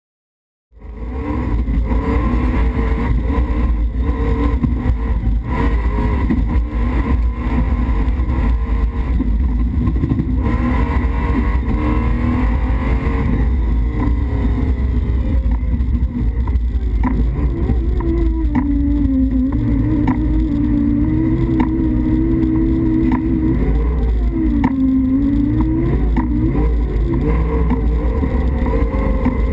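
Toyota rally-raid car's engine heard from inside the cockpit, running hard with its pitch rising and falling as it accelerates and changes gear, over frequent knocks and rattles from the car.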